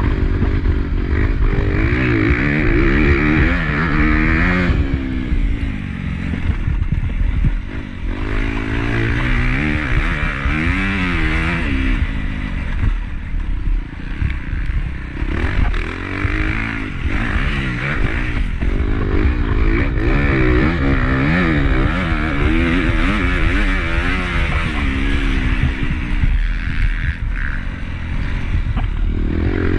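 Honda CRF250 single-cylinder four-stroke motocross engine revving hard, its pitch rising and falling over and over as the rider accelerates, shifts and backs off, with rattling from the bike under it.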